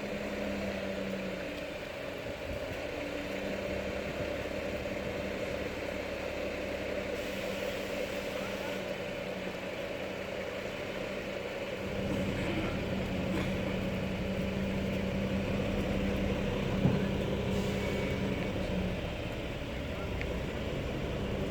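Steady vehicle noise with a low humming tone. It grows a little louder about halfway through, and there is one sharp click later on.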